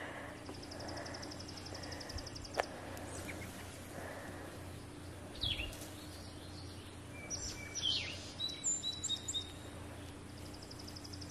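Songbirds singing outdoors: a rapid high trill near the start and again at the end, with scattered chirps and whistles in between. A faint steady hum runs underneath, and there is one sharp click about two and a half seconds in.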